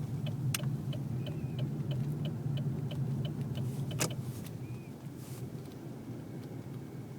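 Car's turn-signal indicator ticking about three times a second over the low rumble of the car moving, heard inside the cabin. About four seconds in, a sharp click comes and the ticking stops, and the rumble eases.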